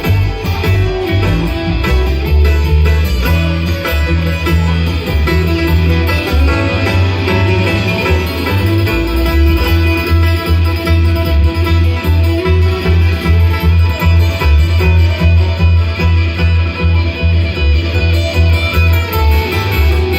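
Bluegrass band playing an instrumental passage, with picked guitar to the fore over a steady walking bass.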